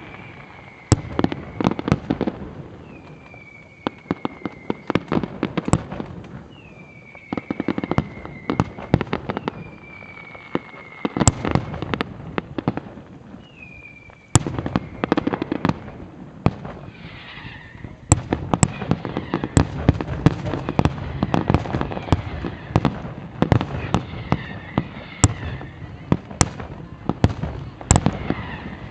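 A fireworks display: a steady run of sharp bangs and crackling, which grows denser about two-thirds of the way through. Four falling whistles sound one after another in the first half.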